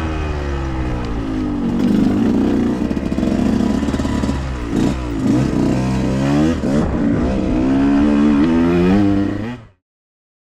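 Dirt bike engine revving up and down repeatedly as the bike is ridden, cutting off abruptly near the end.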